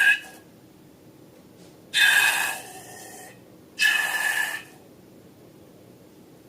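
Air hissing out of a balloon's neck in three short bursts, each with a steady whistling squeal.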